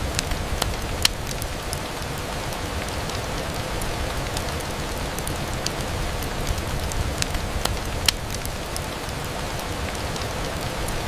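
Steady rain pattering on a window, with scattered sharp ticks throughout; two louder ticks come about a second in and at about eight seconds.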